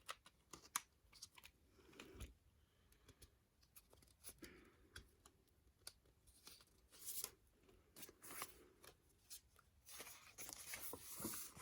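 Faint clicks and soft rustling of a CD album being handled: the case, disc and paper lyric insert being moved about, with a longer stretch of rustling near the end.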